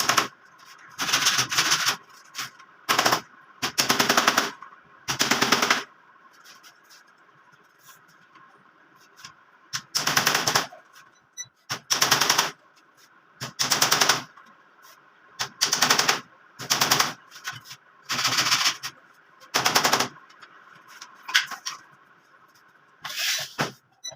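A power tool run in about a dozen short bursts, each half a second to a second of rapid rattling impacts, with pauses between them.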